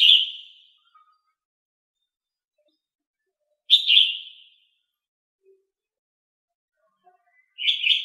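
A bird calling: three short calls about four seconds apart, each starting sharply and fading within half a second.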